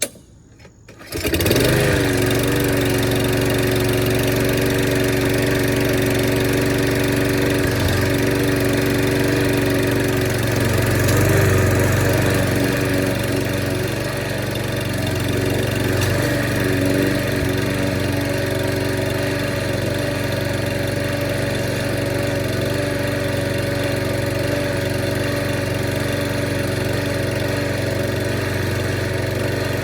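2010 Lawn-Boy 10642 mower engine cold-started with the recoil pull cord after months unused, catching on the first pull about a second in, then running steadily.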